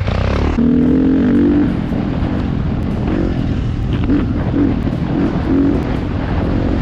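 Dirt bike engine running under way on a trail, its pitch stepping up about a second in and rising and falling with the throttle over a steady rumble.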